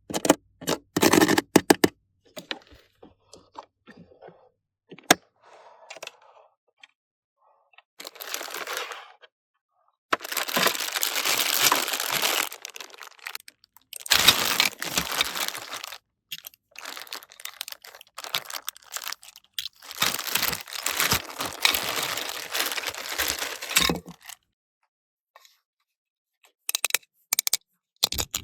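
Close-up handling of toy pieces and packaging: scattered sharp clicks and taps, and several stretches of crinkling, tearing noise lasting a few seconds each.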